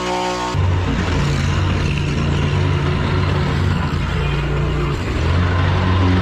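An engine running steadily, a low hum with a rushing noise over it, cutting in about half a second in.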